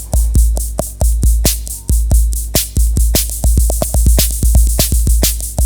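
Soviet RITM drum machine playing a preset rhythm: a steady, even beat of deep electronic bass-drum thumps mixed with sharp hissing hits from its noise generator.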